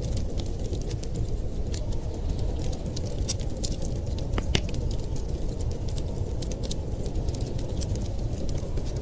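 Wood fire crackling with frequent small sharp pops, over a steady low rumble of blizzard wind.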